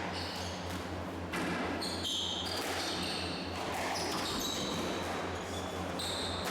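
Squash rally: the ball cracking off rackets and the court walls about once a second, with short high squeaks of shoes on the court floor and a steady low hum underneath.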